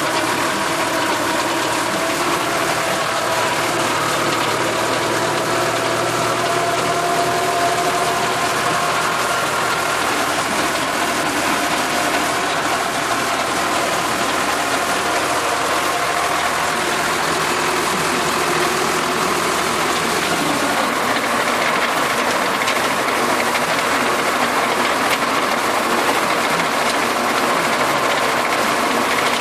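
Tractor engine running steadily under load while its PTO-driven rotary tiller turns, chopping celery into the soil: a continuous mechanical clatter with engine tones that waver slightly.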